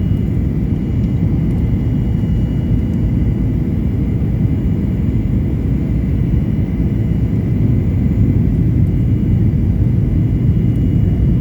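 Steady cabin noise inside a Boeing 737 MAX 8 on its landing: a constant low rumble of its CFM LEAP-1B engines and airflow, with a faint steady high whine on top.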